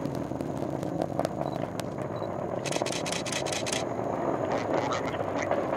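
Atlas V rocket's engine rumble, a continuous noisy roar during ascent. A burst of rapid camera shutter clicks comes about three seconds in.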